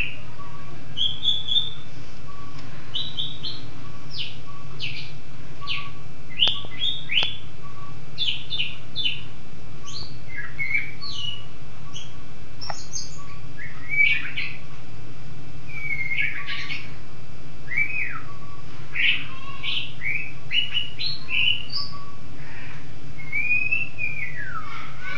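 Songbird singing: a lively run of quick chirps and short whistled notes, some sliding down in pitch, over a steady low hum.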